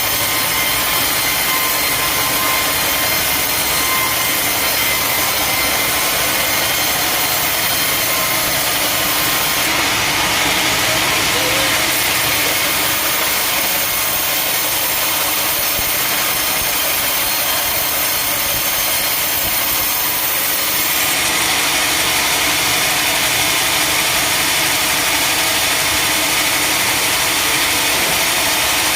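Sawmill saw running steadily through teak timber: a loud, continuous cutting noise with small changes in tone about ten and twenty seconds in.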